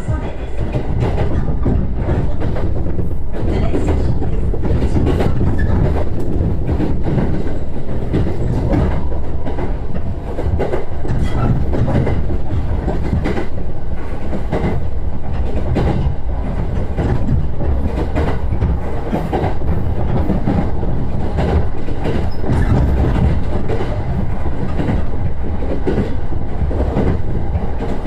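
JR East E129 series electric train running along the line: a steady low rumble with frequent short knocks as the wheels pass over the track.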